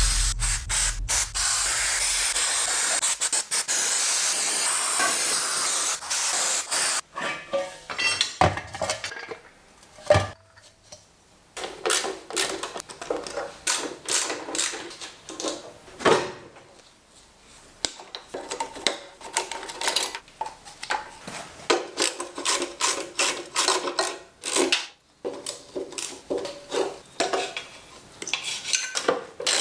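A steady hiss for about the first seven seconds, then a long run of irregular metal clicks, scrapes and knocks from hand tools working on parts.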